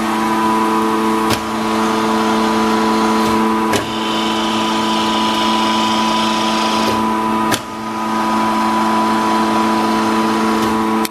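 WMW Niles DLZ 400 centre lathe running, its drive and gearbox giving a steady hum with a whine. The sound dips briefly about a second in, near four seconds and near eight seconds, and a higher hiss joins for a few seconds in the middle.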